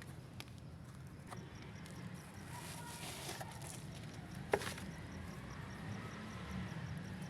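Wet powder paste being shaped and pressed by hand: faint scattered clicks and soft crackles, with one sharper click about four and a half seconds in, over a steady low hum.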